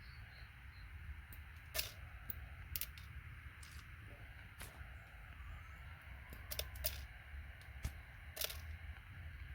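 Light, sharp metallic clicks at irregular intervals, about a dozen: a paint scraper tapped with a hammer, knocking gold-plated pins off computer connectors.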